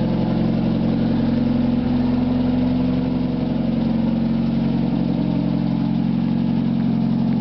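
1960 Morgan Plus 4's four-cylinder engine idling steadily, on its first run after about two and a half years laid up.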